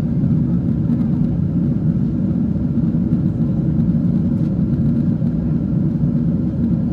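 Boeing 777-300 airliner cabin noise during descent: a steady, low rumble of engines and airflow, even throughout.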